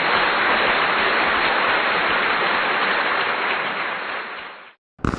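Bonfire burning with a steady crackling hiss that fades out near the end.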